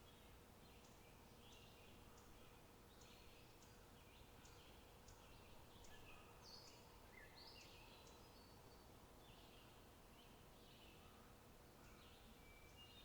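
Faint birds chirping: many short, high calls following one another throughout, over a low, steady outdoor background.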